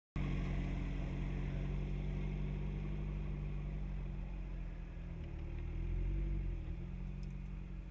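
Jeep Renegade small SUV's engine running steadily as it drives, a low engine note whose pitch wavers a little and swells slightly in the second half.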